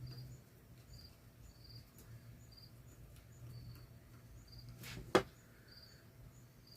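Crickets chirping steadily over a low hum, with a single sharp click about five seconds in.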